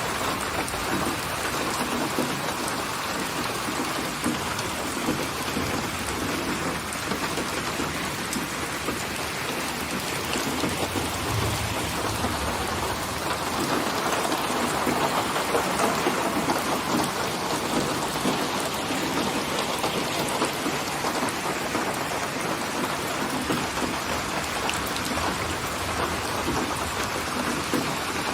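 Steady rain falling. A low rumble swells about halfway through.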